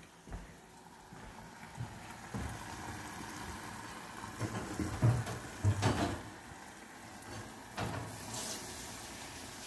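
Kitchen clatter from tidying up: a few knocks and bumps of things being moved and put away, strongest about five to six seconds in, over a faint steady sizzle of chicken frying in a pan.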